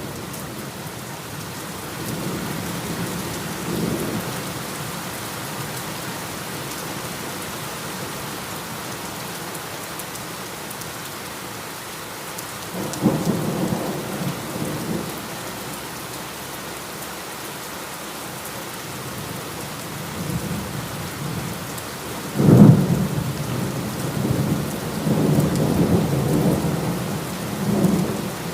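Steady rain falling in a thunderstorm, with rolling thunder rumbling up about halfway through and a sharper, louder crack of thunder near the end that rolls on.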